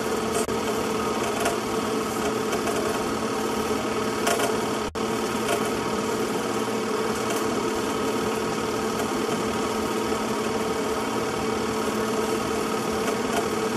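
A steady mechanical whir and hum that holds one pitch throughout, dropping out for an instant about five seconds in.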